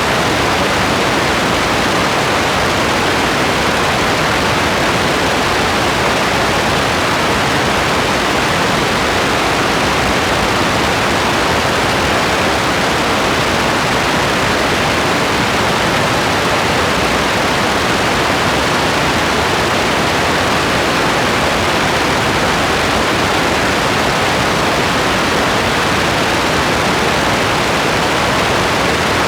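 Rain falling steadily: an even, unbroken hiss with no separate drops standing out and no thunder or change in level.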